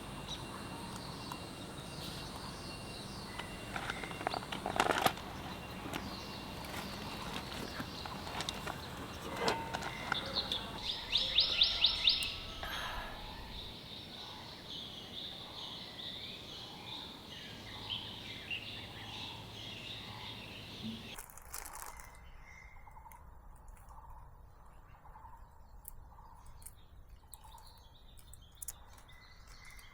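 Forest ambience with small birds chirping, a loud rapid run of chirps about a third of the way in, and a couple of sharp knocks before it. About two-thirds of the way in, the background suddenly turns quieter and a short chirp repeats about once a second.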